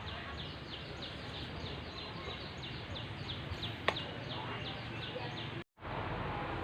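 A bird giving a fast series of short, high, falling chirps, about four a second, over steady outdoor background noise; the chirping stops about four seconds in, and the sound drops out completely for a moment near the end.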